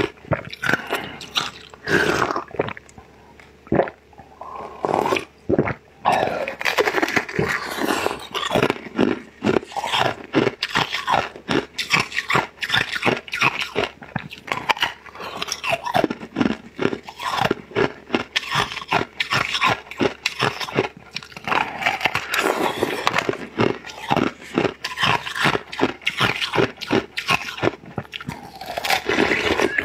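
Close-miked eating: a person bites into and chews blue ball-shaped treats, with dense rapid crunches and wet mouth clicks, and a few slurps.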